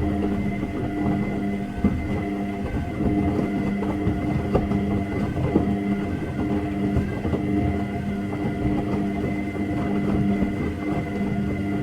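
Washing machine running: a steady motor hum with a thin high whine over the rumble of the turning drum, and scattered light knocks.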